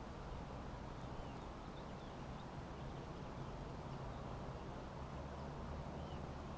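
Faint, short songbird chirps, a few notes between about one and two and a half seconds in and again near the end, over a steady low rumble.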